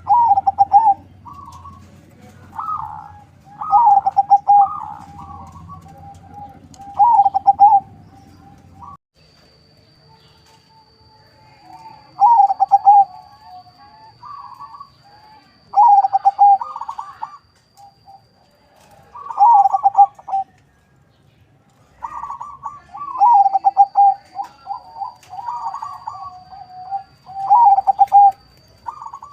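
Zebra dove (perkutut) of local × Bangkok crossbreed singing its rolling coo phrases, repeated every few seconds with short pauses between them.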